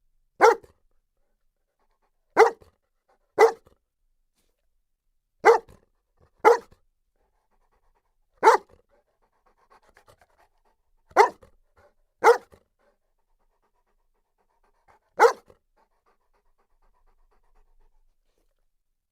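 Saint Bernard barking single barks, nine in all, spaced irregularly one to three seconds apart, with faint panting in some of the gaps.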